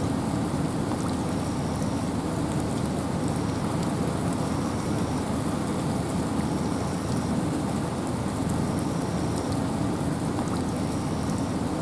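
Steady rain with wind in a forest: an even, deep hiss of rainfall with fine scattered drop ticks. A faint short high tone recurs about every second and a half.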